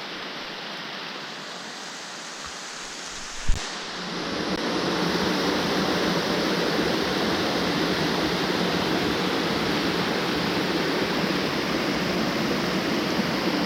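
Rushing water of a creek waterfall, a steady rush that grows louder about four seconds in. A single sharp knock comes just before the rise.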